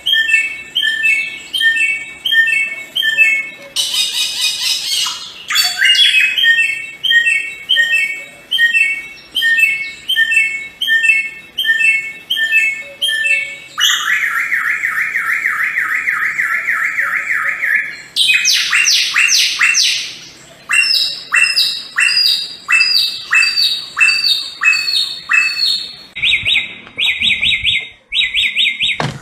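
Samyong bird singing loud, varied phrases of rapidly repeated chirping notes. The phrase type changes every few seconds, with a fast, even trill lasting about four seconds near the middle.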